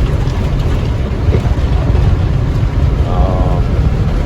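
Steady low rumble of engine and road noise inside the cab of a Freightliner box truck, with a brief faint voice about three seconds in.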